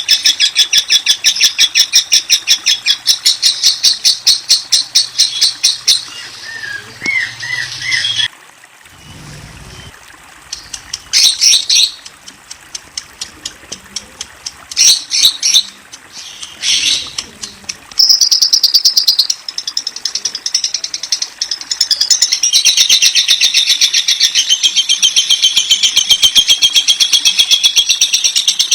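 Lovebird chattering in long runs of rapid, high-pitched trills. About eight seconds in the run breaks off into scattered short calls, and the continuous chatter resumes at about eighteen seconds.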